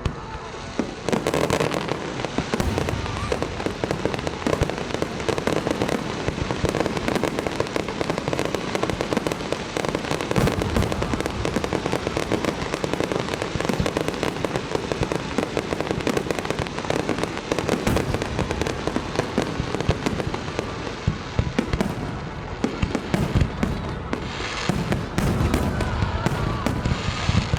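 Fireworks display in full barrage: shells bursting in close, overlapping succession, with crackling.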